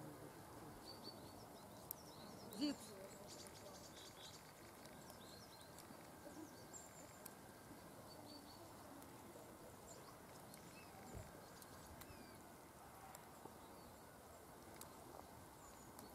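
Near silence outdoors, with faint high chirps of small birds scattered through the first few seconds and one brief louder sound about three seconds in.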